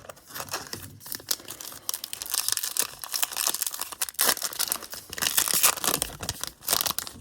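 Trading card pack wrapper being torn open and crinkled by hand, a dense crackling that goes on for several seconds with two louder stretches.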